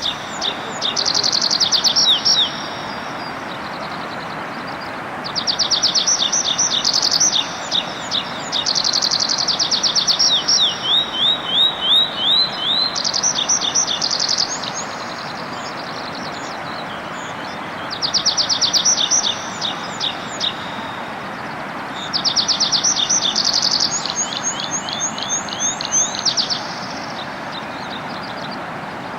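A songbird singing, repeating phrases of fast high notes about two seconds long with pauses of a few seconds between them, over a steady background hiss.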